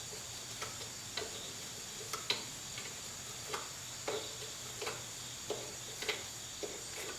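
Light metal clicks from a hand wrench working on a brake-line fitting, about one every half to three-quarters of a second, over a faint steady high hum.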